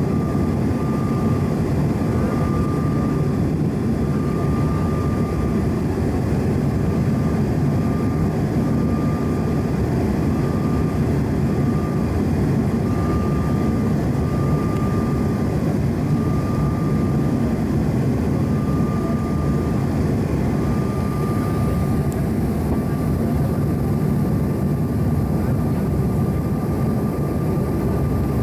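Steady cabin noise of a Bombardier CRJ-900 airliner in flight: an even rumble of airflow and its rear-mounted turbofan engines, with a thin steady high tone above it.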